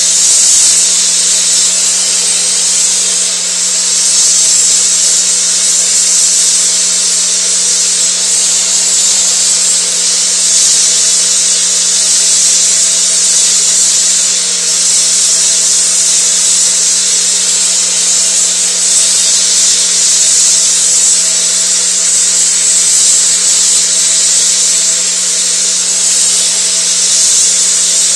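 Gas torch flame hissing steadily while brazing bronze onto steel rebar, with a steady low hum underneath.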